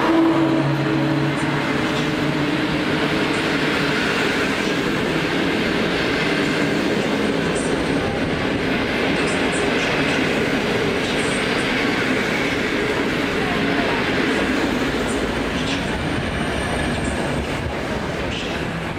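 EP07 electric locomotive and its string of InterCity passenger coaches rolling past slowly as the train pulls out, wheels on rail making a steady rumble with occasional clicks. A steady hum from the locomotive is heard at first, and the rolling noise fades toward the end.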